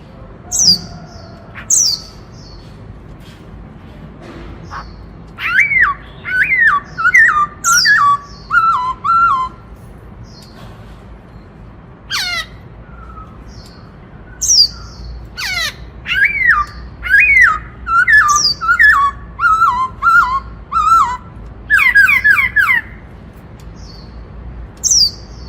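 Black-throated laughingthrush singing loudly in the song style keepers call 'bắt cô trói cột': three runs of repeated falling whistled notes, with sharp, high call notes between them.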